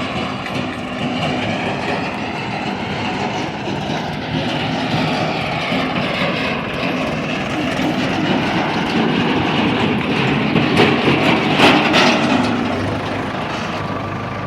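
A JCB loader's diesel engine and the tractor's engine running steadily, with a cluster of clattering knocks about eleven to twelve seconds in.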